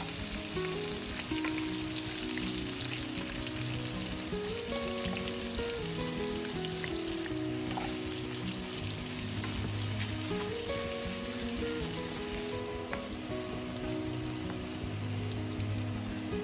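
Pork belly pieces and chopped onion sizzling steadily in hot fat in a frying pan, stirred now and then with a wooden spatula. Background music plays underneath.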